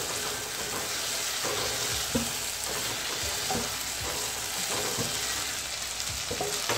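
Green chillies, garlic and spices sizzling in a little oil in a non-stick wok, with a steady hiss. A spatula stirs them, scraping and tapping against the pan every second or so. The yogurt's water has nearly cooked off, so the mixture is dry-roasting.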